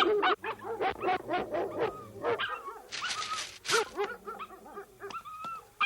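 Several cartoon dogs barking, yipping and whimpering in quick succession, with a brief hissing burst about three seconds in.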